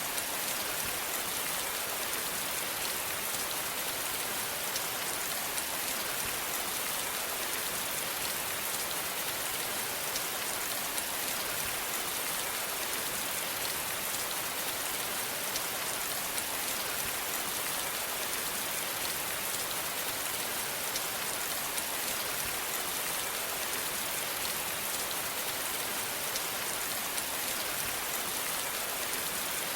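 Steady rain falling, an even hiss dotted with fine drop ticks, with no change in intensity.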